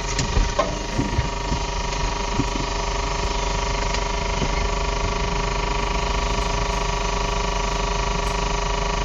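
A semi-truck's engine running steadily after a crash, still on, with a few short knocks in the first couple of seconds, heard through a dash-cam recording.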